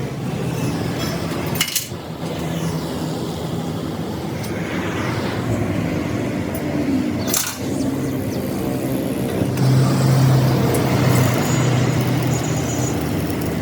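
An engine running steadily, with two sharp knocks, one about two seconds in and one about halfway through.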